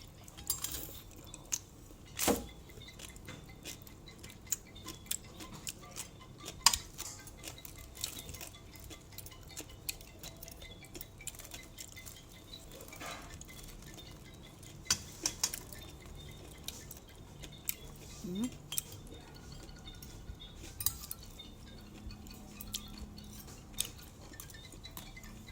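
Cutlery clicking and clinking against a plate or tray at irregular moments, during eating.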